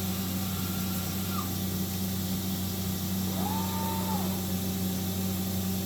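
Rotary axes of a Matsuura MX-520 5-axis machining center (trunnion tilt and rotary table) traversing back to their home positions: servo motor whine that rises, holds and falls away twice, the first move ending about a second and a half in and the second lasting about a second near the middle, over the machine's steady low hum.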